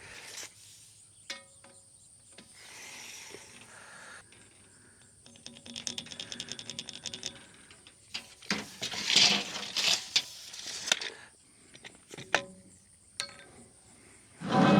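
Hand work with metal fence hardware and tools: scattered clicks and metallic clinks, a run of rapid ratchet-like clicking about five seconds in, and several bursts of rustling, scraping noise.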